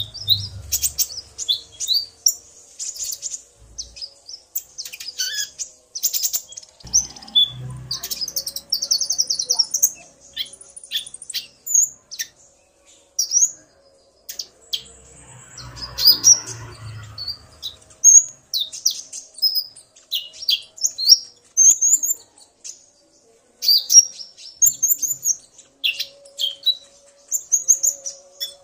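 Male and female brown-throated sunbirds (konin, kolibri ninja) calling back and forth in rapid, sharp high chirps and short trills: the male excited into full song by the female's calls. A few soft low thumps come about 7 and 16 seconds in.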